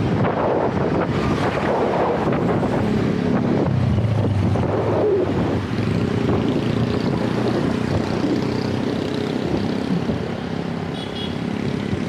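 Wind buffeting the microphone over a steady motor-vehicle engine hum from traffic close by, with a brief faint high chirp near the end.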